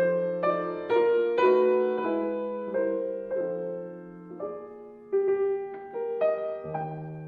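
Background piano music: slow, struck notes and chords that ring and fade.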